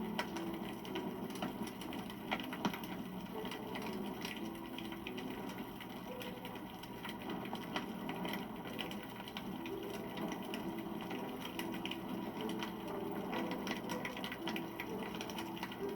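Wood campfire burning, crackling steadily with many small snaps and a couple of louder pops.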